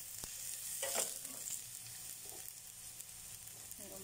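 Chopped onion and garlic sizzling in hot oil in a nonstick frying pan, with a metal spoon stirring and scraping the pan twice in the first second.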